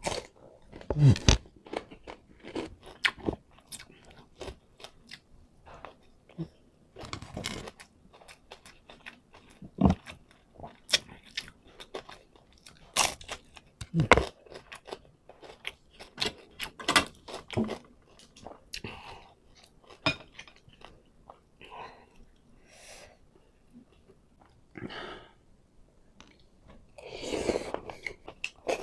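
Close-miked chewing and crunching of crispy fried dried fish (tuyo) with rice: a steady, irregular run of wet crackles and crunches. Near the end, a spoonful of coconut-milk broth is sipped with a short slurp.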